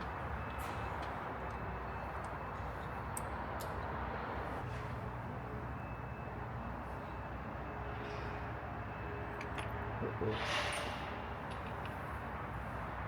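Steady workshop background noise with a few faint clicks, a low hum in the middle, and a brief hiss about ten and a half seconds in.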